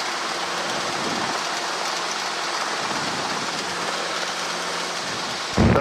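Steady hiss of the aircraft's radio audio between transmissions, with a faint low hum underneath; a louder transmission cuts in near the end.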